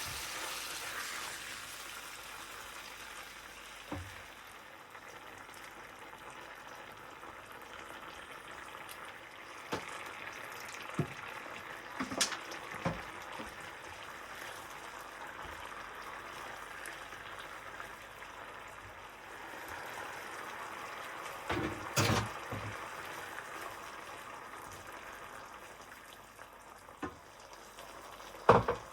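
Food frying in a pan, a steady sizzle, with a few sharp clicks and knocks scattered through it. The loudest knock comes near the end.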